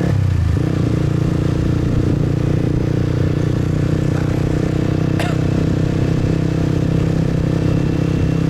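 A motorbike engine running steadily while riding. Its note dips briefly right at the start and then settles. A short, sharp high sound cuts in about five seconds in.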